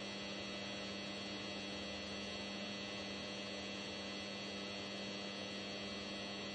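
Steady electrical mains-type hum with a constant high hiss; there is no crash or explosion sound.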